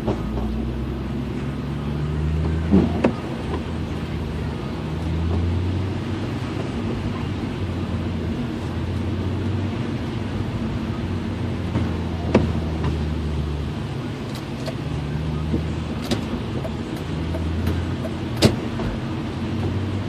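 BMW E36 M3 straight-six engine running on the move, its low note rising and falling, over a steady hiss, with a few sharp clicks.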